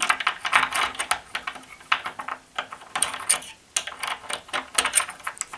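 Quick, irregular metal clicks and light rattles of a tubular door latch's parts being handled, with its cover cap pushed on and the part inside tried for turning.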